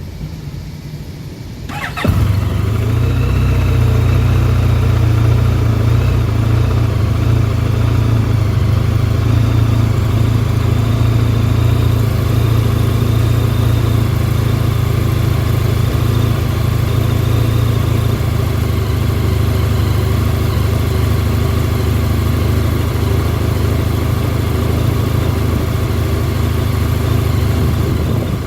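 Honda VFR1200F DCT's 1,237 cc V4 engine cranked and catching about two seconds in, then idling steadily. This is a cold-weather start at about −8 °C after three hours parked, with the engine not fully cold from an earlier ride.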